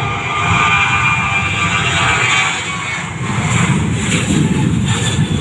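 Jet airliner engines running loud, a steady rush and rumble with a high turbine whine that fades away about three seconds in.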